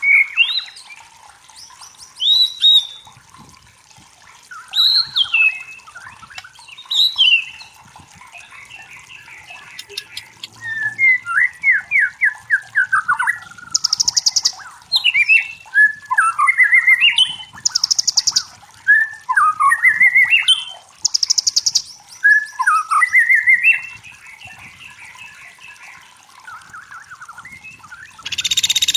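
A songbird singing a varied string of whistled phrases, with slurred up-and-down notes and short trills. Brief dry rattling bursts break in three times in the second half, and a louder one comes at the very end.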